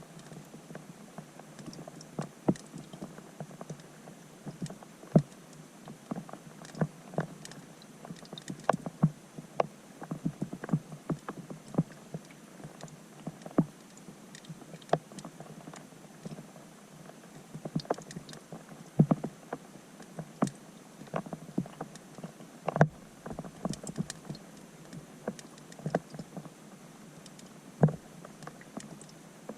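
Raindrops striking a pond's surface, heard from underwater through a GoPro's waterproof housing: an irregular run of sharp plinks and ticks, a few a second and uneven in strength, over a faint steady hiss.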